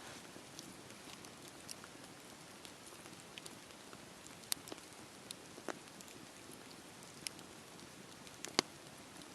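Campfire burning: a steady low hiss of flames with scattered sharp crackles and pops from the burning wood. The loudest pops come about four and a half seconds in and near the end.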